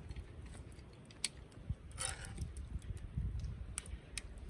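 Wood campfire crackling: scattered sharp pops and clicks over a steady low rumble.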